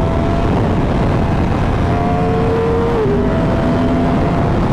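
Wind rushing over a helmet-mounted microphone at highway speed, with a 2015 Yamaha R1's engine running steadily underneath as a faint hum.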